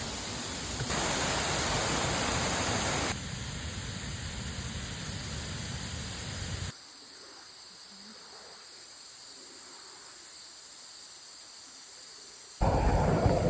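Steady rush of falling water from Mae Pan waterfall, changing abruptly in loudness between clips: louder from about a second in, quieter from about a third of the way through, and fainter still for the second half. About a second before the end, a much louder noise cuts in abruptly.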